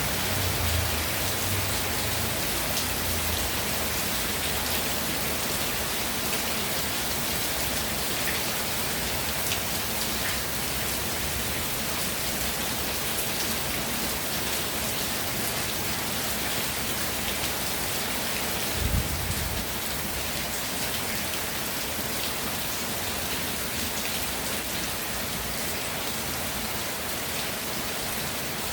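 Steady rain falling, a dense even hiss with scattered drop ticks. A brief low thump comes about two-thirds of the way through.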